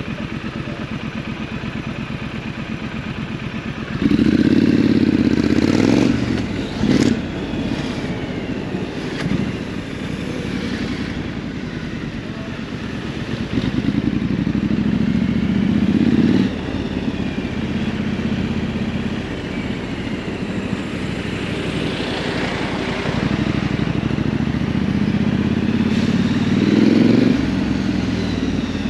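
Triumph Scrambler 900's parallel-twin engine running while the motorcycle is ridden, its note growing louder in three spells as it pulls.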